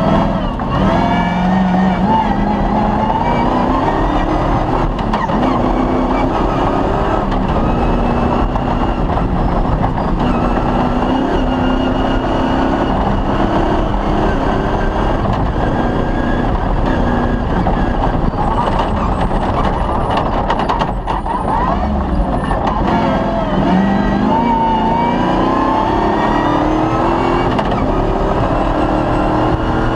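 Off-road rally vehicle's engine running hard under load, its revs stepping and rising and falling with gear changes, over a steady rush of road and wind noise.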